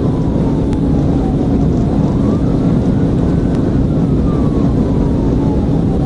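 Police cruiser's siren wailing, sliding slowly down in pitch and then sweeping quickly back up, about twice, over a steady loud rush of road and engine noise from the patrol car at pursuit speed.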